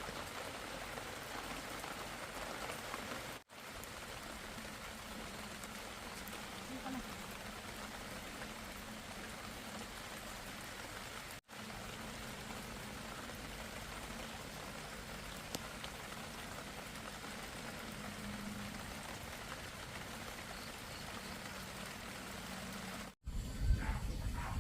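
Steady rain falling, an even hiss that drops out briefly three times.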